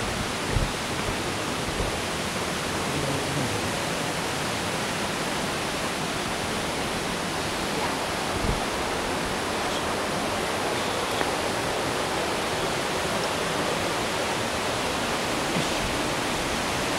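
Steady rush of falling water from Kani-daru, a small waterfall, with a couple of soft low thumps.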